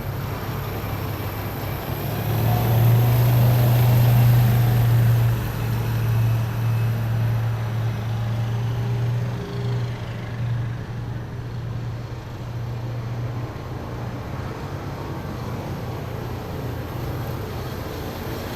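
Heavy military vehicles driving past on a road: a deep engine drone that swells about two seconds in, then slowly dies away.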